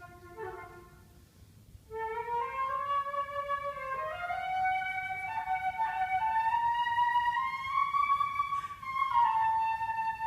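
Solo flute playing: a few short, quiet notes, then about two seconds in a loud, long-held line that bends slowly upward in pitch, climbing over several seconds before stepping down near the end.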